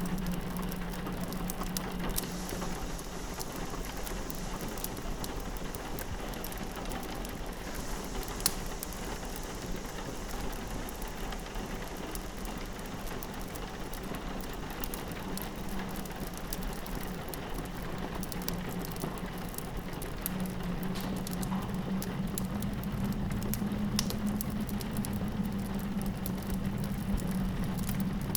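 Rain pattering on a window over a crackling wood fire, with scattered sharp pops, one louder about eight seconds in, and a low steady drone underneath.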